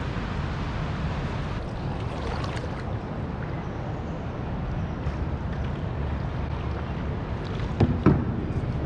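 Steady low rumble of wind and water around a canoe on a river, with two sharp knocks close together about eight seconds in.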